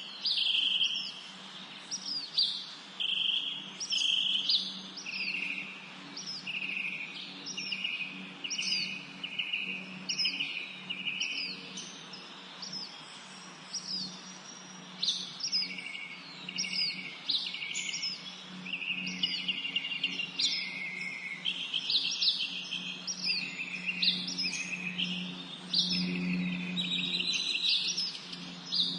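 Songbirds singing over and over in a spring forest: short high notes falling in pitch, each followed by a brief buzzy trill, about one phrase a second and overlapping in places. A faint steady low hum runs beneath.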